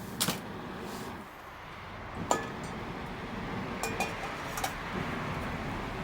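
Several light clinks, a few with a brief ring, over a steady hiss.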